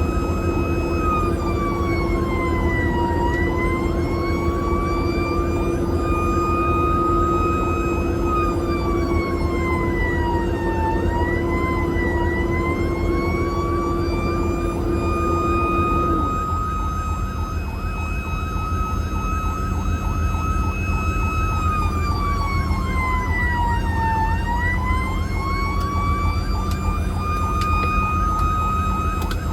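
Emergency-vehicle siren held at a high, steady pitch that dips down and swings back up three times, over a constant low engine rumble. A lower steady tone under the siren stops about halfway through.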